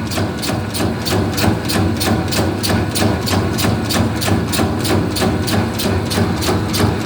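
Meatball-forming machine running: its motor hums steadily under an even mechanical clacking of about five strikes a second as it forms the balls.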